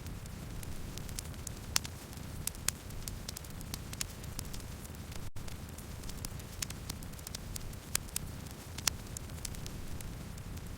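Wood campfire burning steadily: a low rumble of flame with sharp, irregular crackles and pops from the burning wood. There is a split-second gap in the sound about halfway through.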